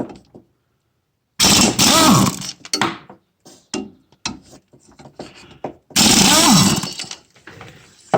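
Power tool, likely an impact wrench, run in two bursts of about a second each on the mower blade bolts, with light clanks between.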